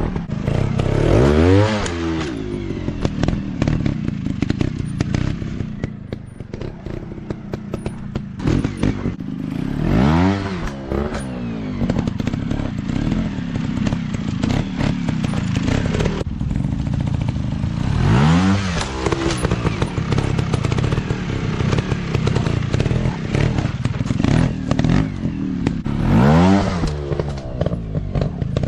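Dirt bike engine running, with a sharp rev that rises and falls in pitch about every eight seconds, four in all.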